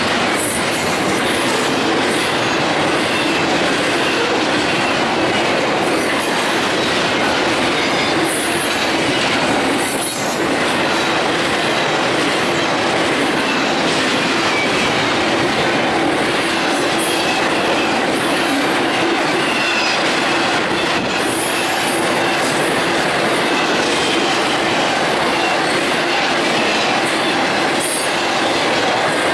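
Double-stack intermodal container train rolling steadily past on welded track. Its wheels and cars make a continuous rumble and rattle, broken by short, high-pitched wheel squeals now and then.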